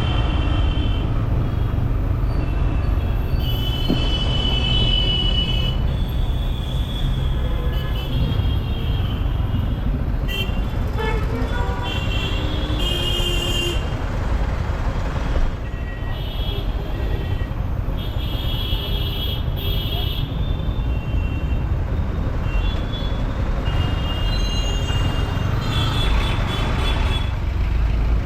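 City traffic with many vehicle horns honking in short, repeated toots, over a steady low rumble of road and wind noise from a moving motorcycle.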